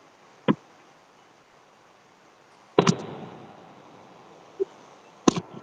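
Fireworks going off: three sharp bangs, the loudest about three seconds in, echoing and fading away over more than a second.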